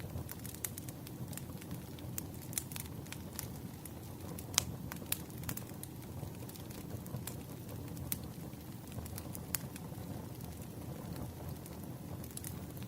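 Wood fire crackling: a steady low rumble of burning logs with scattered sharp pops and snaps, a few louder pops about four and five seconds in.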